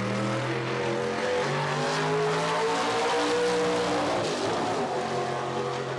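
Drag-race car engine running at full throttle, its note holding steady, then changing pitch about a second and a half in, over a broad rush of noise.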